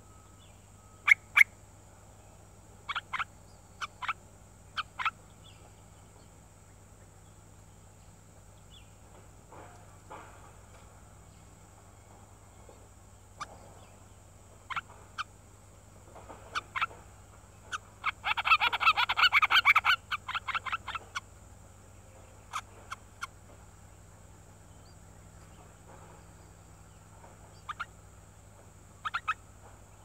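Bird calls at a bulbul's nest with nestlings: short sharp chirps, single or in quick pairs, come every second or few, and a rapid chattering run of chirps lasting about three seconds near the middle is the loudest part.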